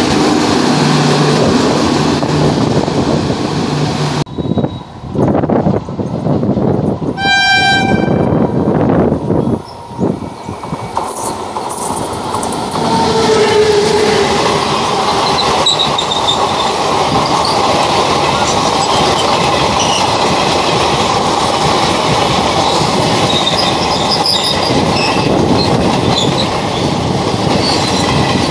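Express trains passing close by on an electric main line: coaches rumbling over the rails, with a short electric-locomotive horn blast several seconds in. A long rake of coaches then rolls past steadily with clickety-clack and faint high wheel squeal.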